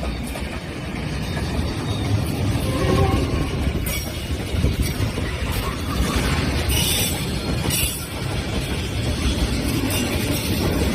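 Freight train rolling along the track: a steady low rumble of wagons and wheels, with a few brief high-pitched squeals from the wheels.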